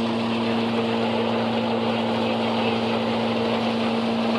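Farmall 400 tractor running at a steady speed, belt-driving an antique Blizzard silage chopper: an even, unchanging mechanical drone with a steady hum.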